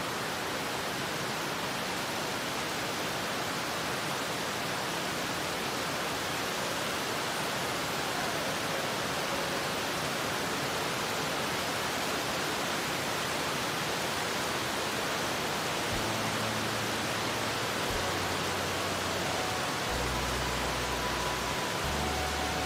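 Heavy rain falling, a steady, even hiss throughout. From about two-thirds of the way through, a low rumble comes and goes underneath it.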